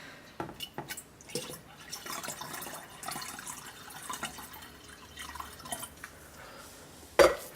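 Water being poured off and dripping into a container while it is weighed out for a lye solution, with small splashes and clicks. A single loud knock comes near the end.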